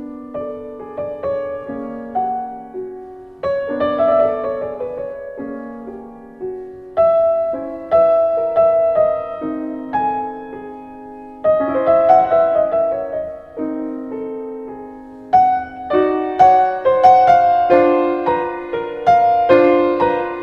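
Background piano music: a slow, gentle melody of single struck notes and chords that grows fuller and louder in the last few seconds.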